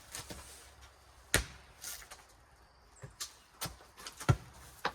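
A four square ball being bounced and hit back and forth: a string of about six sharp, separate knocks at uneven spacing, the loudest near the end.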